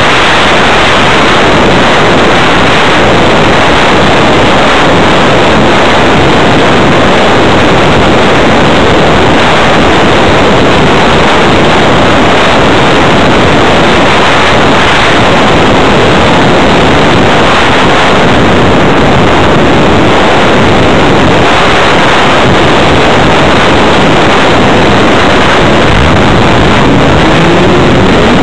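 Loud rushing airflow over the microphone of an RC plane's onboard camera, with no motor tone. About two seconds before the end, the brushless electric motor starts up with a rising whine.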